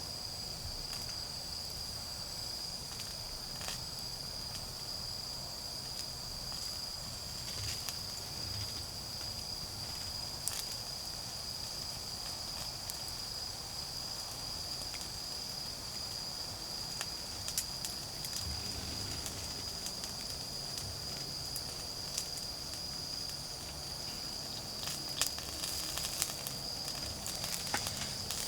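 Autumn insects chirping in one steady, high, unbroken tone, over scattered crackles and pops from a wood fire, the crackles coming more often near the end.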